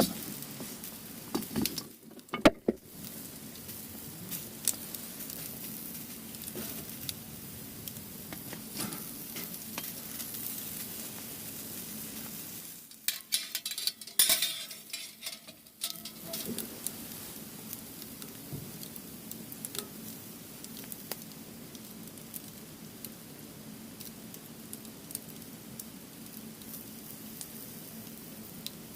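Firewood burning in a fire pit, crackling and hissing steadily with many small pops. A few sharper knocks come a couple of seconds in and again around the middle.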